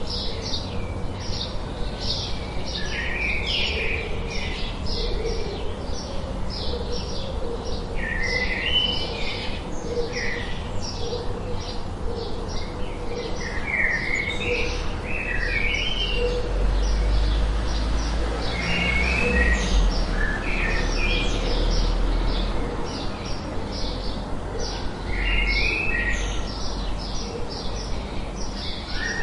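Several birds chirping and calling: rapid high chirps several times a second, with short warbling phrases recurring every few seconds. A low rumble sits underneath in the middle stretch.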